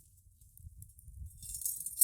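Campfire crackling, with scattered snaps that thicken into a louder burst of dense, bright crackling and clinking in the second half. The middle range is filtered out, leaving a low rumble beneath thin, high crackle.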